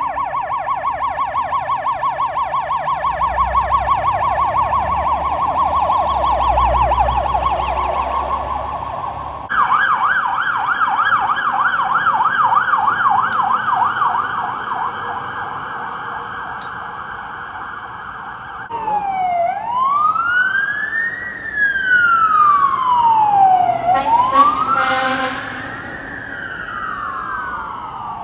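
Fire engine electronic sirens: a fast warbling yelp that switches to a different, higher fast warble about ten seconds in, then slow rising-and-falling wails from about two-thirds of the way through, with a second wail overlapping near the end. A low truck engine rumble is heard early, while the first yelp is sounding.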